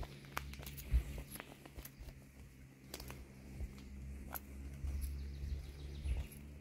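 Footsteps on a woodland path, irregular clicks and knocks, over a low rumble of wind on the microphone.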